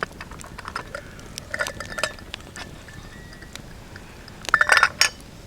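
Metal cookware clinking: scattered light clinks with a short ring, then a louder burst of rattling clinks about four and a half seconds in.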